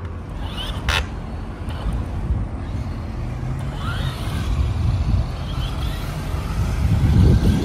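Car engines rumbling at low pitch, steadiest a few seconds in and swelling loudest near the end, with a sharp click about a second in.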